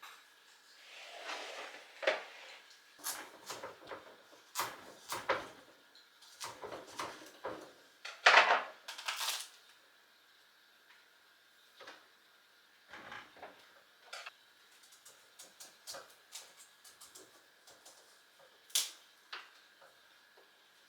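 Irregular knocks, clicks and short clatters of objects being handled, busiest in the first half with the loudest clatter about eight seconds in, then scattered single ticks and a sharp click near the end.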